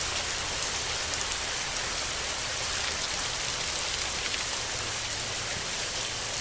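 Steady rain falling: an even hiss with fine ticks of individual drops.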